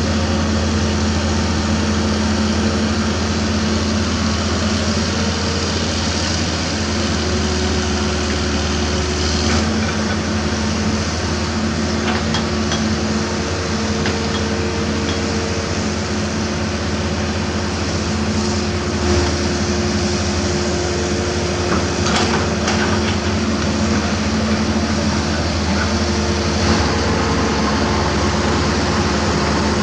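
Hitachi Zaxis 200-5G crawler excavator's Isuzu four-cylinder diesel running steadily under hydraulic load, its pitch shifting a few times, with a few short metal knocks and clanks.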